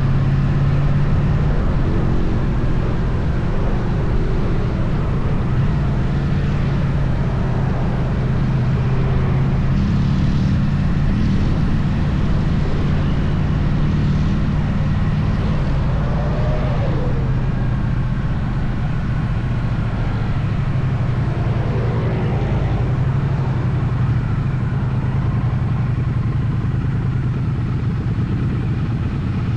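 Triumph Bonneville T100's parallel-twin engine running steadily at cruising speed, with a constant low drone under an even rush of road and wind noise.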